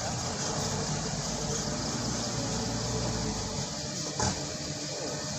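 Truck engine running steadily, fading about three and a half seconds in, with a single short knock soon after.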